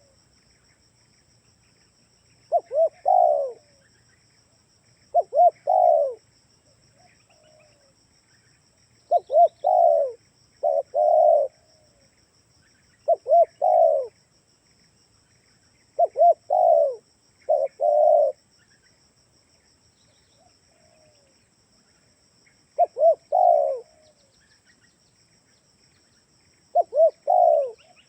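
Spotted dove (tekukur) cooing: a repeated phrase of two short coos and a longer, lower-falling coo, given nine times at uneven intervals, with fainter answering coos in the pauses.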